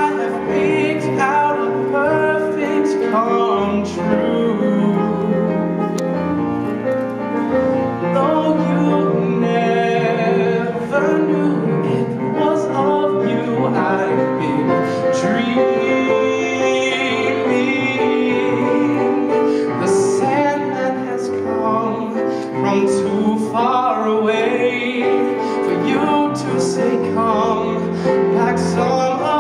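Live pops orchestra with piano playing a slow ballad with sustained chords.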